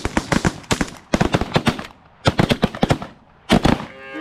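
Several shotguns firing at once in rapid, overlapping shots, in four quick clusters with brief pauses between them.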